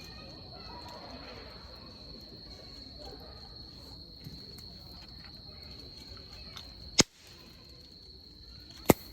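Wood campfire burning quietly, with two sharp, loud pops near the end about two seconds apart, over a steady high trill of insects.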